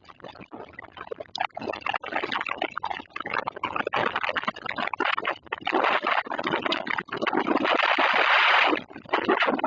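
Summer thunderstorm noise: a rushing hiss that swells and drops in irregular gusts, loudest about three-quarters of the way through.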